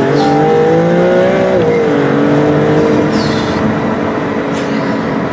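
Maserati MC20 Cielo's 630 hp twin-turbo V6 accelerating in Sport mode, heard from the cabin. The revs climb, drop sharply about one and a half seconds in with a gearchange, then pull on at a steadier pitch.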